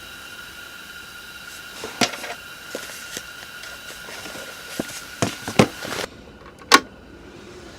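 A few sharp knocks and clicks, the loudest near the end, over a steady faint high whine.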